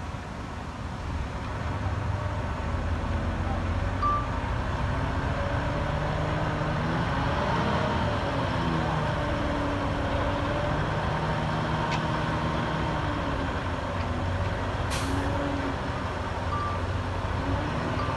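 Heavy diesel engine of construction machinery running, its pitch rising and falling as it works. About fifteen seconds in comes a short sharp hiss of air, like an air-brake release, and there are a few brief high beeps.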